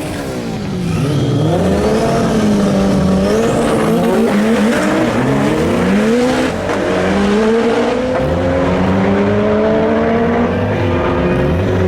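Race car engines revving hard, their pitch repeatedly dropping and climbing as they accelerate, then one engine pulling in a long steady rise near the end.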